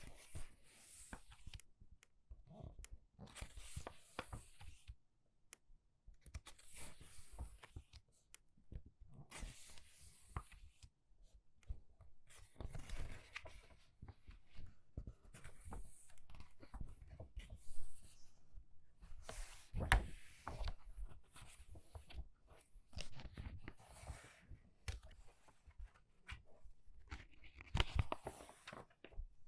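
Pages of a book being turned by hand, a paper rustle about every three seconds, with small clicks and taps between the turns.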